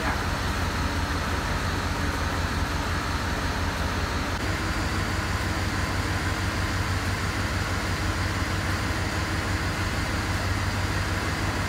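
Mercedes-Benz engine idling steadily, with a constant low hum.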